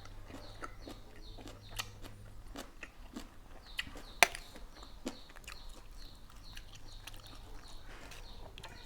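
Close-up chewing and crunching of vegetables, with a sharp crunchy bite about four seconds in. Small birds chirp steadily in the background.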